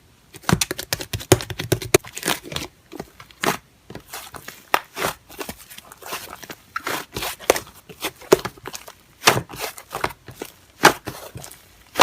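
Slime being pressed and worked by hand, giving a dense, irregular run of sticky crackles and pops.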